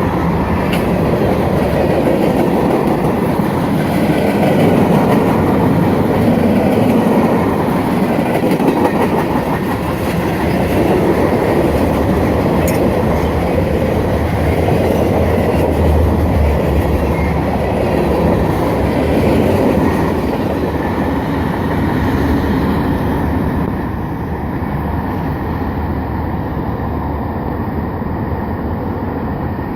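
A long manifest freight train's cars rolling past, a steady rumble of wheels on rail with clickety-clack over the joints, easing off slightly in level about three-quarters of the way through.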